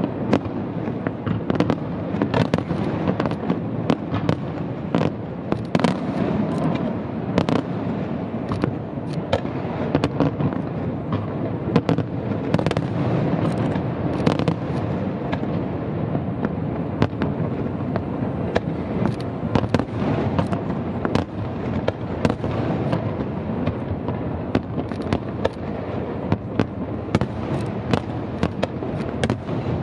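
Aerial fireworks display: a rapid, irregular barrage of shell bursts and bangs over a steady rumble of overlapping explosions.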